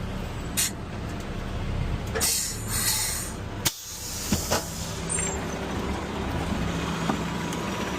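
Front-loader garbage truck's diesel engine running steadily, with a burst of hissing about two seconds in and a few sharp knocks shortly after the middle.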